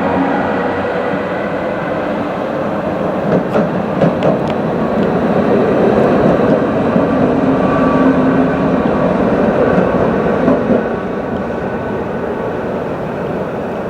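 Train running through a station: a steady rumble of wheels on rail with a faint hum, a few sharp knocks about four seconds in and again near eleven seconds, then easing off slightly.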